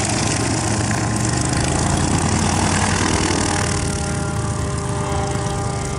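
Light aircraft piston engine running steadily: the tow plane for a glider launch. A steady engine hum with a hiss over it.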